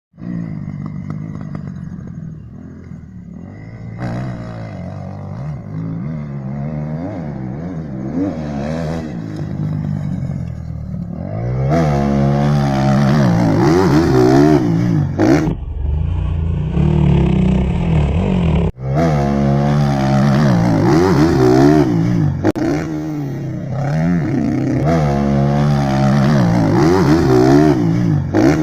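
Motocross dirt bike engines revving up and down over and over as the throttle is opened and closed. The sound grows louder partway through and cuts off abruptly for a moment about two-thirds of the way in.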